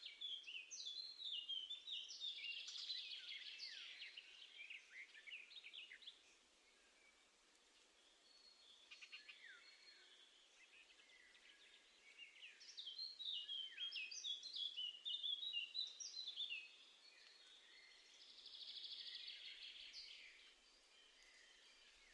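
Songbirds singing: two long runs of quick, varied whistled notes, then a shorter buzzy trill near the end, with quiet gaps of faint outdoor hiss between.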